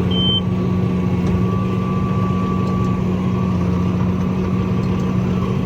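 Tractor engine running steadily while planting, heard from the cab, with a constant hum and a steady whine. A short high beep sounds just after the start.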